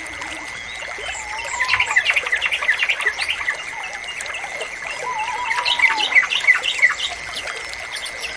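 Yellow-vented bulbul (trucukan) song among a chorus of rapid small-bird chirps, over a steady high-pitched ringing tone. Two longer arching calls stand out about a second in and again about five seconds in.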